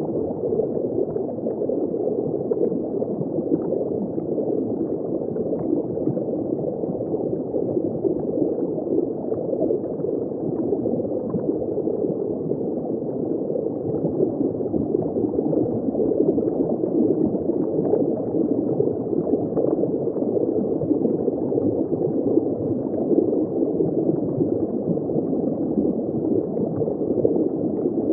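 Underwater bubbling heard from just below the surface: a steady, muffled mass of small bubbles popping and gurgling, with the sound held low and dull.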